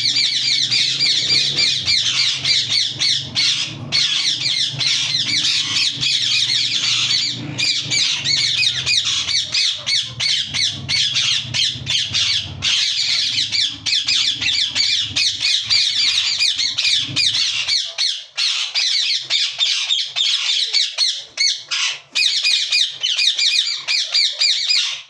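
Yellow (lutino) Indian ringneck parakeet squawking in a fast, unbroken run of sharp, high calls, with only brief pauses. A low hum lies under it and stops about three quarters of the way through.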